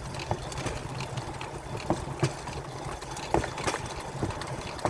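Pedal-powered railcar's steel wheels rolling fast along the rail, a steady rumble with sharp clicks as the wheels cross rail joints, twice in quick pairs.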